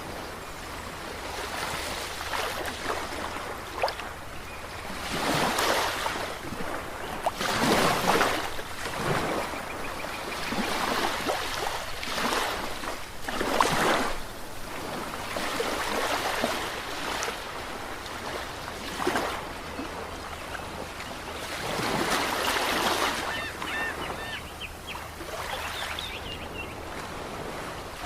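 Ocean surf: waves washing in and breaking, the noise swelling and falling with several louder breakers a few seconds apart.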